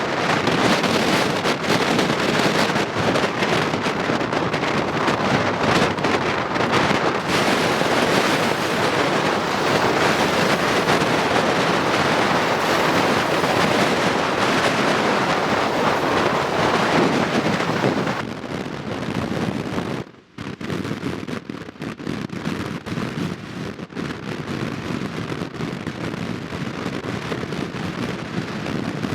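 Gusty storm wind buffeting the microphone over rough ocean surf, a dense rushing noise with constant crackle from the gusts. It eases about eighteen seconds in, drops out for a moment a couple of seconds later, then goes on as lighter, crackling wind buffeting.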